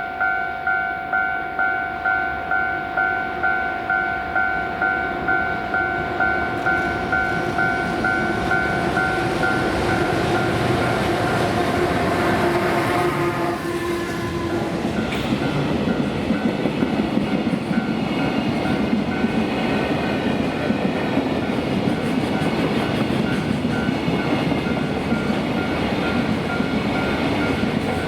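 Japanese level-crossing warning bell ringing about twice a second as a freight train approaches. Around 13 seconds in, the EH500 electric locomotive passes with a falling pitch, followed by the rumble and clickety-clack of container wagons, with the crossing bell still ringing through it.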